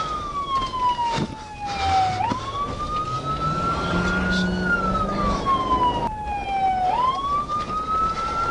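Emergency vehicle siren on a slow wail: the pitch falls over about two seconds, swoops back up and climbs again, twice through. A fainter low hum rises in pitch in the middle.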